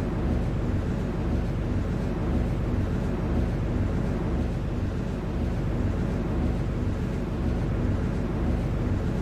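Steady rumble heard inside an MTR Tseung Kwan O line C-Train, with a faint low pulsing about twice a second.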